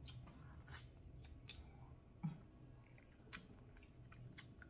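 Faint chewing of snow crab meat, with a few sharp little clicks scattered through.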